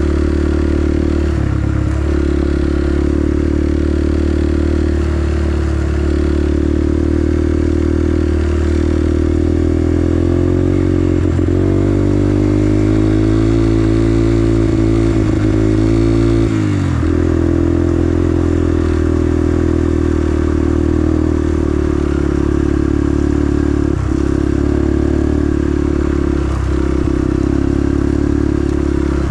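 An engine, likely a motorcycle's, idling with a ticking noise whose cause the owner can't work out. About ten seconds in the engine is slowly revved up, then it drops back to idle around seventeen seconds.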